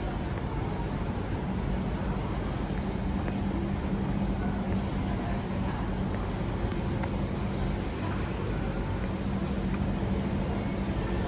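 Singapore MRT train running, heard from inside the carriage: a steady rumble with a low hum that swells slightly at times.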